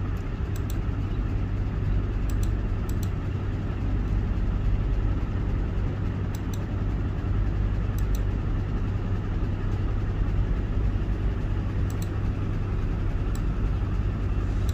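Steady low mechanical drone like an engine idling, with a few faint clicks.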